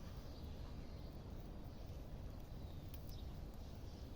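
Faint outdoor background noise: a steady low rumble with a few faint ticks and clicks, the clearest about three seconds in.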